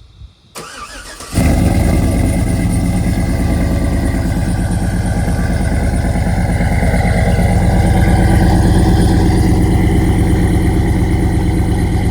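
A 2007 Chevrolet Suburban's 5.3-litre V8 starts just over a second in and settles into a steady idle. It has a TSP Stage 2 low-lift cam, long-tube headers with the catalytic converters deleted, and a knock-off Flowmaster 40 Series muffler ahead of the stock resonator.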